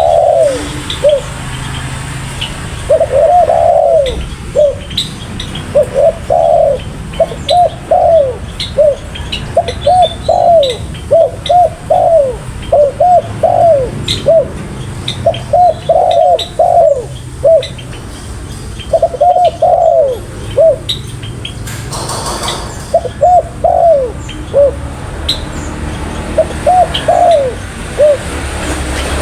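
Spotted dove cooing again and again, in phrases of several arched coos separated by short pauses, with a longer break about three quarters of the way through. Faint high chirps of small birds sound in the background.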